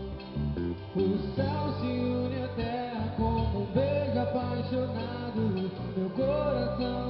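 Live band music from a worship-song rehearsal: a guitar-led accompaniment with a melody line over it.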